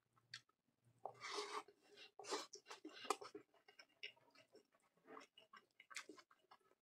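Faint, close-up chewing and wet mouth sounds of a person eating fried rice by hand, with irregular soft clicks and a few louder bursts about a second and two seconds in.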